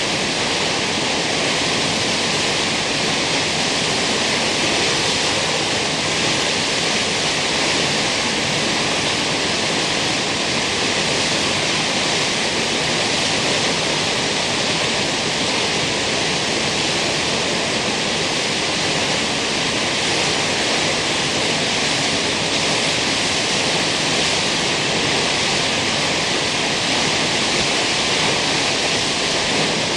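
Kegon Falls, a tall plunge waterfall, pouring in a steady, unbroken rush of falling water.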